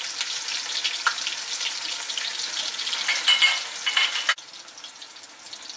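Onions, ginger-garlic paste and tomato wedges sizzling and crackling in hot oil in an aluminium pot. Partway through, the sizzle drops suddenly to a much quieter level.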